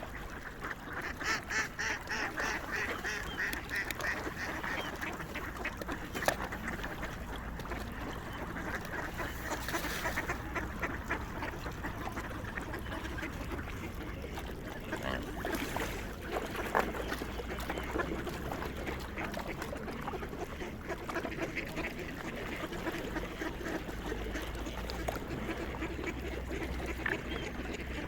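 A flock of swans and other waterfowl calling together: a dense, continuous chatter of honking and quacking calls, busiest a second or so in.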